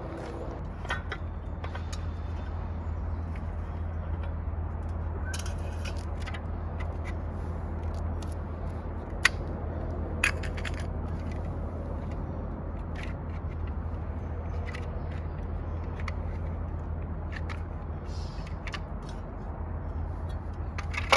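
A steady low rumble with scattered sharp clicks and knocks, the loudest two about nine and ten seconds in.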